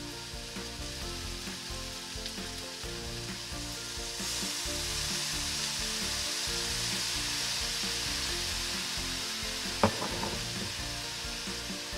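Duck gizzards stir-frying in a hot wok: a steady sizzle with a spatula stirring, the sizzle growing louder about four seconds in as the sauce goes into the pan. One sharp knock near the end, the loudest sound.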